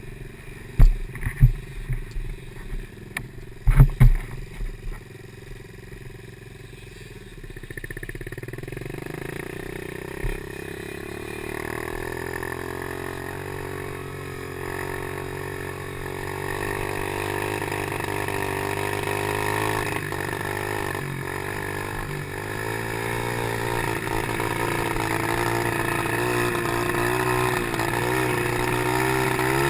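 Small Chinese PY90 motocross bike engine running, its pitch rising and falling with the throttle and getting louder from about a quarter of the way in. A few sharp knocks come in the first few seconds.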